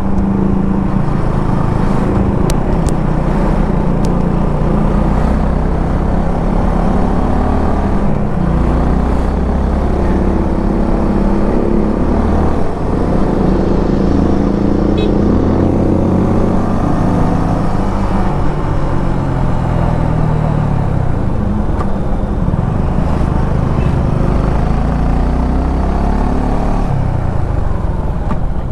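Suzuki V-Strom 250 SX's single-cylinder engine under way on the road, its note rising and falling again and again as the rider opens and closes the throttle through the gears.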